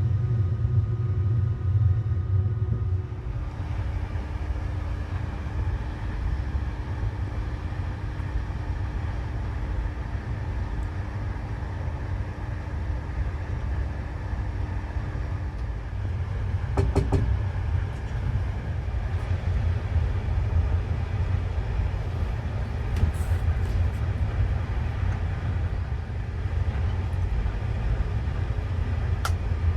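Passenger train running, heard from inside the carriage: a steady low rumble with a faint hum. A few sharp clanks come around the middle and near the end.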